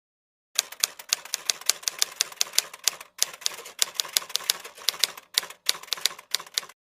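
Rapid typewriter key clicks, about five a second with a few short pauses, starting and stopping abruptly: a typing sound effect.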